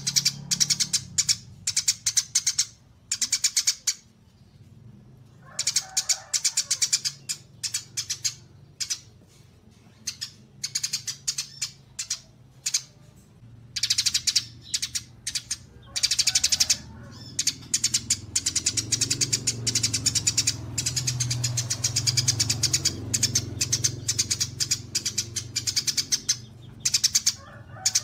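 Small songbirds in rapid, high-pitched chattering song: fast runs of chirps about a second long, broken by short pauses, becoming nearly continuous in the second half. A faint low hum runs underneath.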